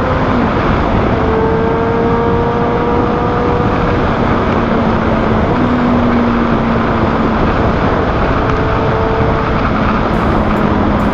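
Motorcycle with an SC Project exhaust cruising at steady speed. Its engine note drifts slowly in pitch under a loud, steady rush of wind noise.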